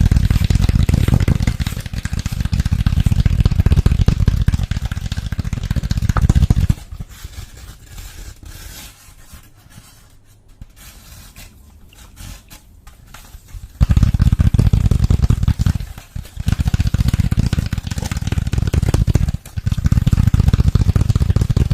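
Close-miked scratching and rubbing sounds, dense and full in the low end. They drop away to quiet, light clicks and taps for several seconds in the middle, then come back.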